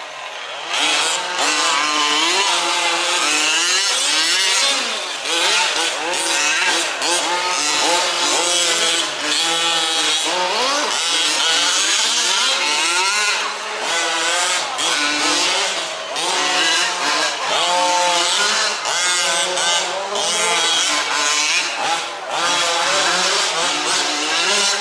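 Several 1/5-scale 4WD remote-control off-road trucks racing, their small two-stroke petrol engines revving up and down without pause, many pitches rising and falling over one another.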